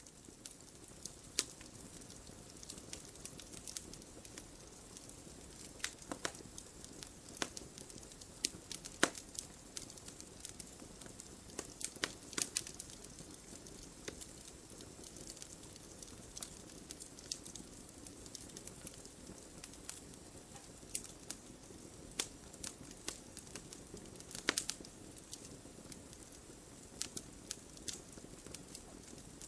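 Wood fire burning in a fireplace: a steady soft hiss of the flames with irregular crackles and occasional sharper pops of the burning logs.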